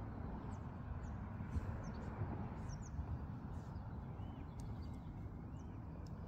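Small birds chirping: short, high, down-slurred chirps scattered throughout, with a couple of brief arched calls midway, over a low steady outdoor rumble.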